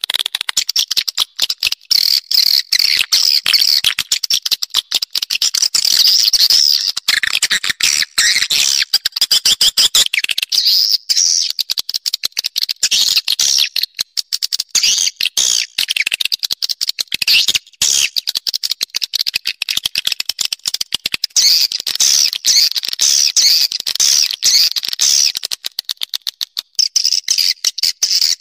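Swiftlet calling sound: a dense, rapid, high twittering of many short chirps with no break. It is the kind of swiftlet lure call played to draw swiftlets into a nesting house.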